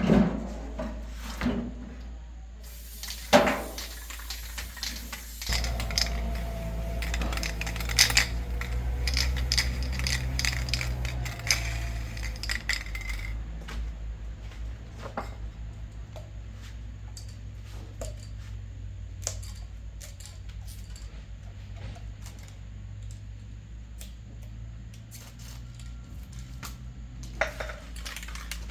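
Metal parts clinking and knocking in irregular taps. A low steady hum runs underneath from about five seconds in.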